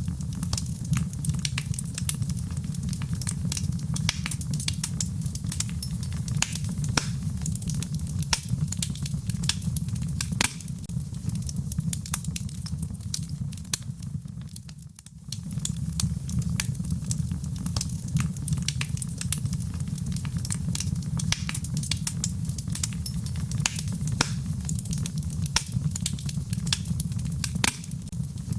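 Wood campfire burning: a steady low rumble of flame with frequent sharp crackles and pops from the burning wood. The sound dips briefly about halfway through, then carries on the same.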